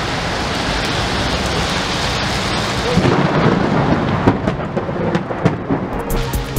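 Steady rain pouring down, with a low rumble of thunder rising about halfway through.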